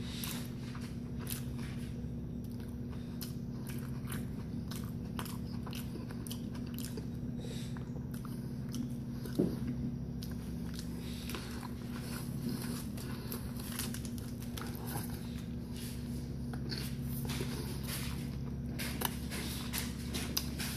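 A man chewing big mouthfuls of a Burger King Triple Whopper with his mouth closed, close to the microphone: a run of irregular wet mouth clicks. A steady low hum runs underneath, and one sharper click stands out about nine seconds in.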